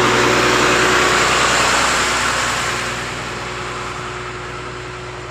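A motor vehicle passing on the road, its engine and tyre noise loudest at first and fading away over the next few seconds, over a steady low engine hum.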